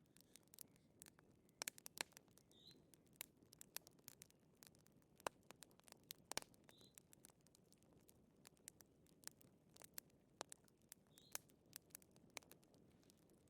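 Wood fire crackling, with irregular sharp pops and snaps over a low hiss. A faint short high chirp comes back about every four seconds.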